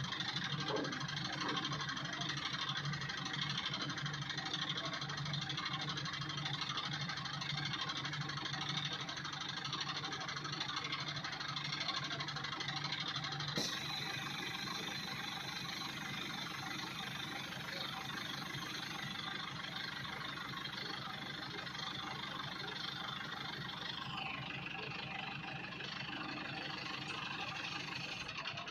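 A farm machine's diesel engine running steadily. The sound changes abruptly about halfway through and again near the end.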